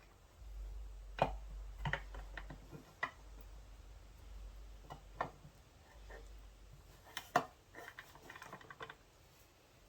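Irregular light clicks and clinks of metal transaxle parts and hand tools being handled during reassembly. The sharpest knock comes a little over a second in and another near seven seconds, followed by a quick run of small clicks.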